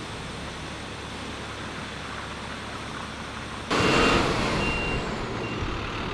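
Street traffic noise from snow-clearing trucks. About four seconds in it becomes louder as a heavy truck runs close by with its reversing beeper sounding.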